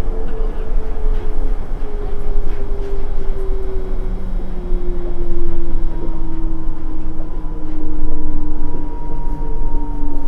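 Nippori-Toneri Liner 330-series rubber-tyred automated guideway train running, heard from inside the car. Its rumble carries a motor whine whose tones slowly fall in pitch as the train slows, with a shift in the tones about four seconds in.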